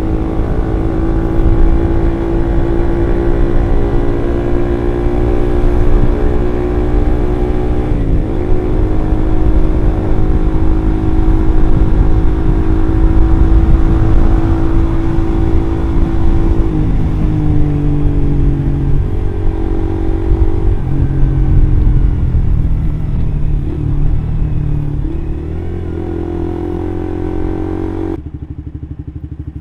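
Suzuki GSX-R150's single-cylinder four-stroke engine running through an aftermarket R9 Mugello exhaust while riding. It holds steady revs, with the pitch stepping down a couple of times as the throttle is eased, and gets a little quieter near the end.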